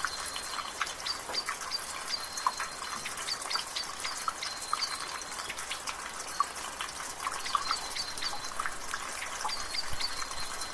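Water dripping and splashing from a rain gutter in light rain, with irregular drops over a steady hiss of rain. Birds chirp in the background with short high calls.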